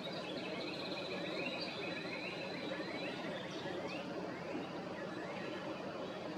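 Small birds chirping: a run of short, upward-sliding notes about twice a second, over steady outdoor background noise.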